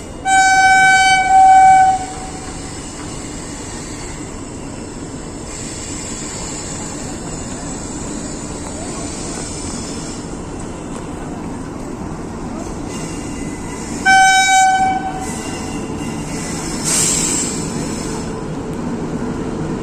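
Indian railway locomotive horn blowing a single steady note for about two seconds at the start and again, more briefly, about fourteen seconds in. In between, the steady running noise of a train.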